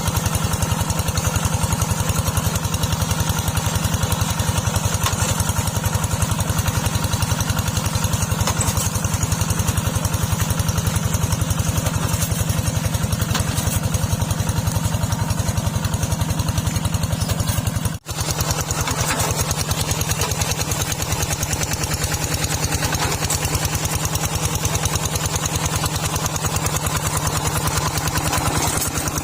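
Small tractor's engine running steadily with rapid, even firing pulses. The sound drops out for an instant about 18 seconds in, then carries on.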